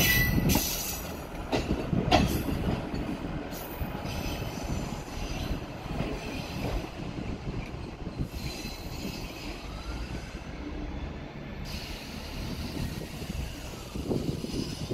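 ScotRail diesel multiple unit pulling away along the platform. It is loudest in the first second, with a few sharp clacks of wheels over rail joints, then settles to a steady rumble. A faint squeal rises and falls near the end.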